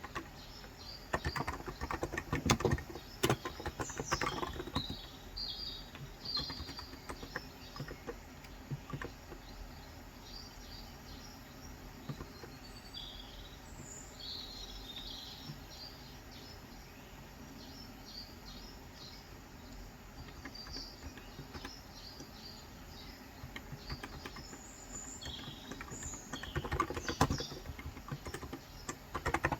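Small birds chirping and twittering throughout, with bursts of typing on a Cox Endeavor electro-capacitive (35 g, tenkeyless) keyboard in the first few seconds and again near the end; the typing bursts are the loudest sounds.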